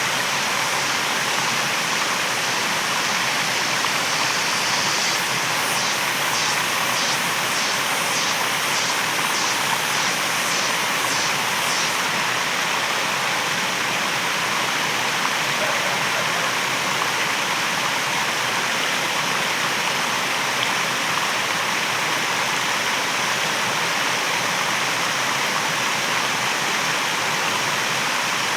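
Waterfall rushing steadily. From about five seconds in, a high-pitched pulsing at about two beats a second runs over the water for some seven seconds, then stops.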